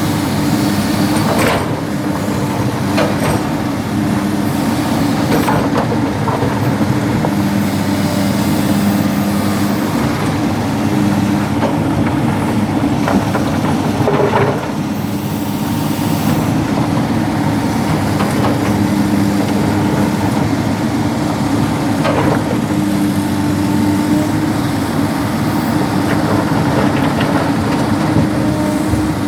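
Hydraulic excavator's diesel engine running steadily under load while loading rock, with a knock now and then.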